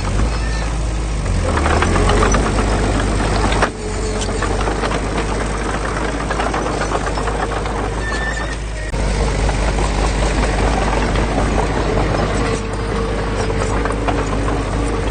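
Diesel engine of heavy earthmoving machinery running steadily under load, with metallic clatter over it; the sound changes abruptly twice.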